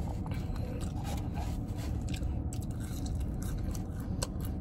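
Someone chewing a mouthful of burger, with small wet mouth clicks scattered throughout, over a steady low hum.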